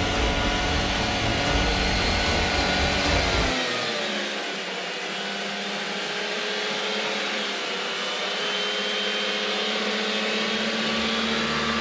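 Car engine running at high revs with a steady whine, its pitch falling away about four seconds in and then holding steady.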